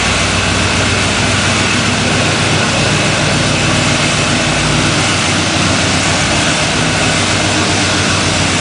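Chevrolet 350 small-block V8 idling steadily through a short temporary exhaust.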